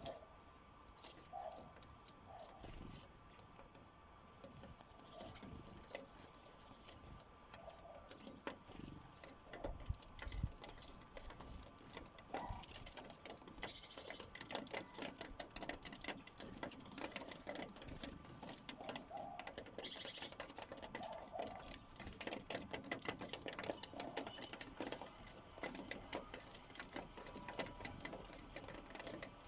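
House sparrows pecking seed at a feeder: rapid, irregular taps of beaks on the feeder, sparse at first and growing dense after several seconds, with a few short chirps.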